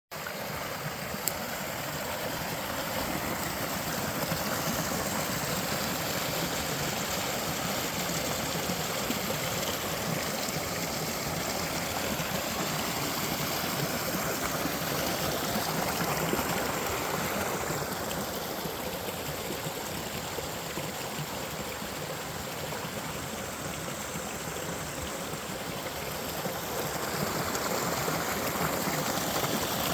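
Stream of running water flowing steadily, an even noise that swells and eases slightly over time.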